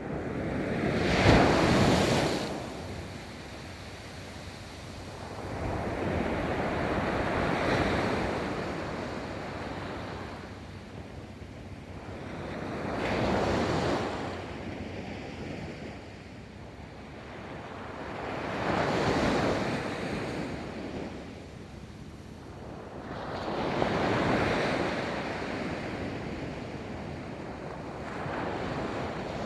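Ocean waves breaking and washing up a beach, a swell of surf about every five seconds, the first the loudest.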